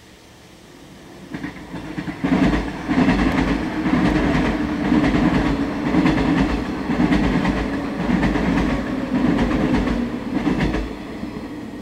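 Electric multiple-unit commuter train passing close by. It builds up over a couple of seconds, then runs loud with a low rumble and wheels clattering rhythmically over the rail joints, and fades away about a second before the end.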